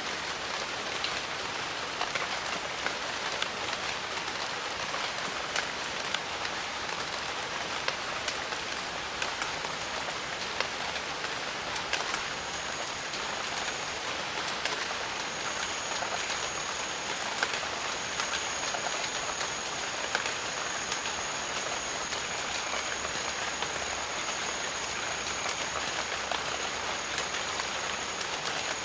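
Steady rain falling, with many sharp individual drop hits over a dense even hiss. A thin, high, steady tone comes in about twelve seconds in, breaks off briefly, then holds.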